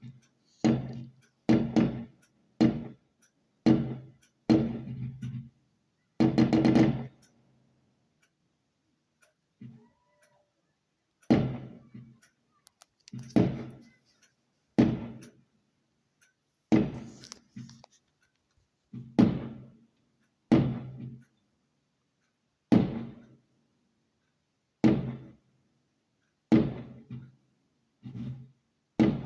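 Fireworks going off: about twenty sharp bangs at irregular intervals, each dying away quickly, with a longer run of noise about six seconds in and a lull of a few seconds before the bangs resume.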